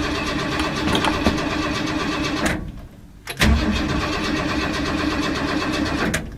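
1978 Ford Bronco's V8 cranked over on the starter in two tries of a few seconds each, with a short break about two and a half seconds in, on a cold start after months of sitting without it catching and running.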